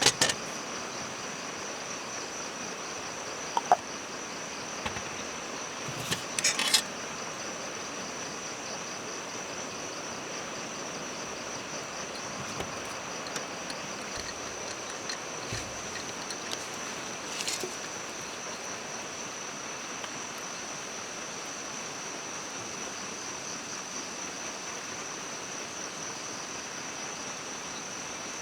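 Forest insects, crickets or similar, chirring steadily in one continuous high-pitched drone over an even background hiss. A few brief sharp clicks or taps break through, the loudest around six to seven seconds in.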